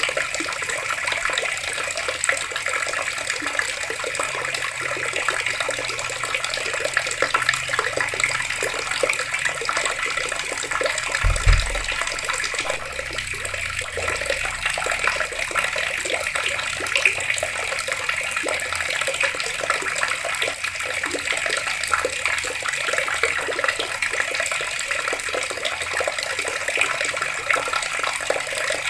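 Water taps running steadily, the water splashing and pouring in an even rush, with one brief low thump about a third of the way through.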